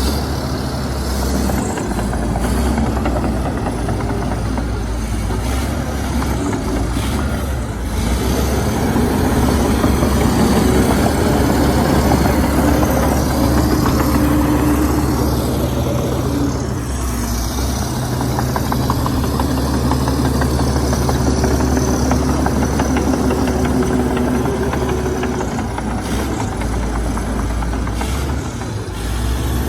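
Komatsu D61EX bulldozer's heavy diesel engine running steadily, its note swelling and easing a few times as the machine works.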